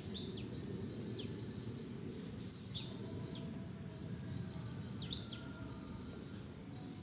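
Small songbirds singing: repeated high trills about a second and a half long, with short downward-sliding notes between them, over a steady low rumble.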